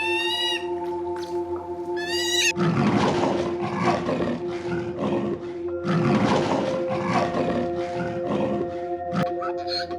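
A cat meows twice in the first few seconds, then an animal gives two long, harsh, noisy calls, the first at about two and a half seconds and the second about six seconds in. Background music with held tones plays underneath.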